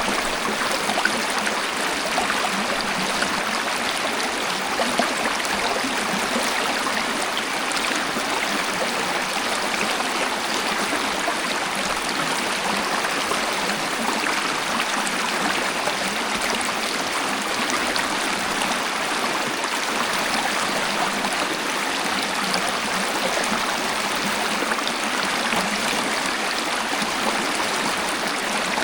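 Waterfall: a steady, even rush of falling and splashing water that does not change.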